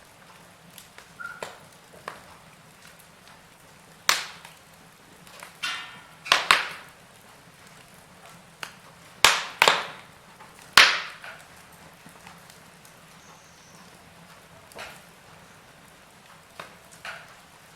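Wood fire in a fireplace crackling: irregular sharp pops and snaps over a faint hiss, with a run of loud snaps through the middle and only small ticks near the end.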